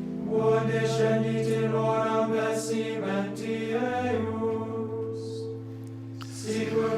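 Choir singing liturgical chant over steady, held low notes, the harmony shifting every couple of seconds.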